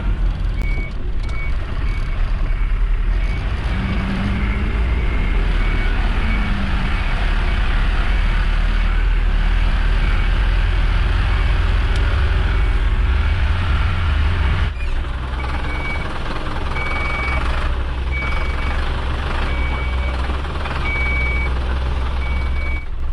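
Mercedes Atego dump truck's diesel engine running under way, its low rumble easing slightly about two-thirds through. In the second half a backup alarm beeps steadily, about once a second.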